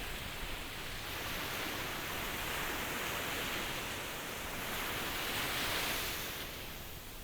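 Ocean waves breaking and washing on the shore: a steady hissing rush that swells twice and eases off near the end.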